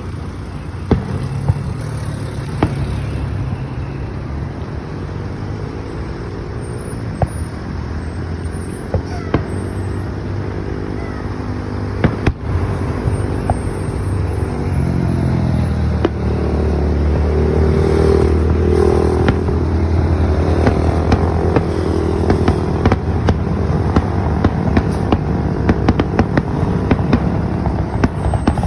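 Motor vehicle engines running, swelling and shifting in pitch about halfway through as a vehicle passes or revs. Sharp pops are scattered throughout and come more often toward the end.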